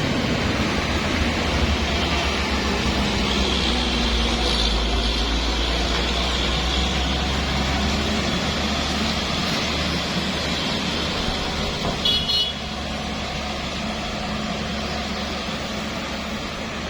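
Road traffic with a steady low engine rumble from heavy vehicles, and a short vehicle horn blast about twelve seconds in.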